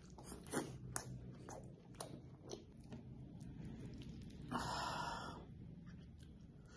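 Close-miked mouth sounds of eating mutton karahi with flatbread: chewing with several sharp wet lip smacks in the first few seconds, then a short hissing rustle about four and a half seconds in.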